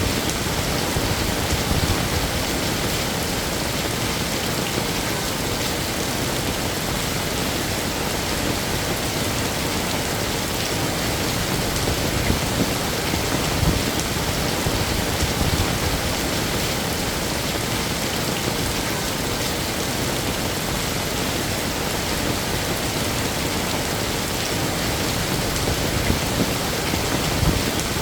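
Heavy rain falling steadily: a dense, even hiss of rain on surfaces with no pauses.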